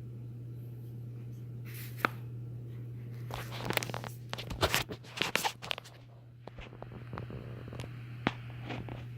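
Harbor Breeze DuBois ceiling fan motor running with a steady low hum. It is overlaid in the middle by a few sharp clicks and a spell of scraping, rustling handling noises, with one more sharp click near the end.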